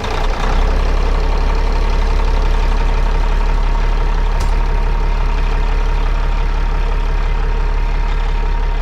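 Peterbilt 379 semi truck's diesel engine idling steadily just after being cranked, running to build air pressure after a new air dryer was fitted.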